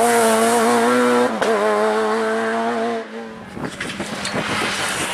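Rally car engine held at high revs with a brief dip about a second in, then the note drops away about three seconds in as the car lifts off, followed by a scatter of sharp pops and crackles.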